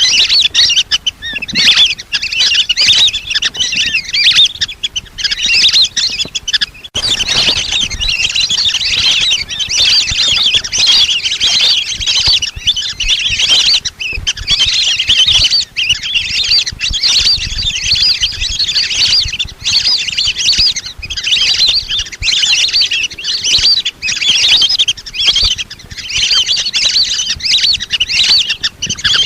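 A flock of lesser whistling ducks giving their high whistling calls in a dense, unbroken chorus, with a short break about seven seconds in.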